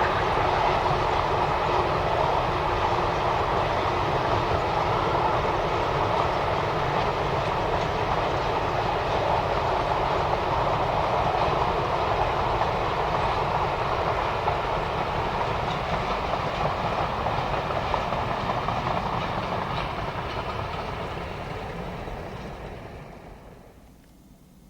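Freight train rolling past, steady and loud, then fading away quickly over the last two or three seconds.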